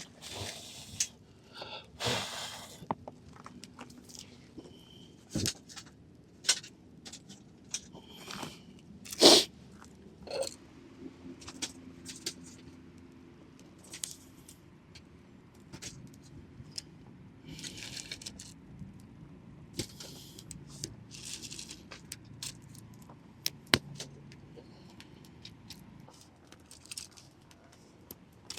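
Camp gear being handled: scattered metallic clinks, scrapes and knocks, the loudest knock about nine seconds in, with a few short rustling scrapes.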